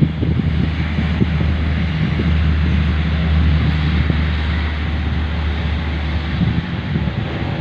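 Steady drone of an aircraft's engines, with a low hum, as the plane takes off and climbs away, heavily overlaid by wind buffeting the microphone.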